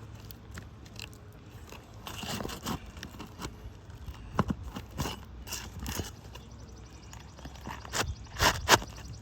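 Asphalt roof shingles crunching and scraping in irregular short bursts, loudest in a few sharp crunches near the end.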